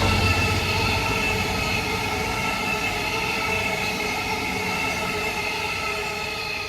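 Train running through a station, its wheels giving off a steady high squeal or ringing over a rumbling rush that slowly fades as it passes.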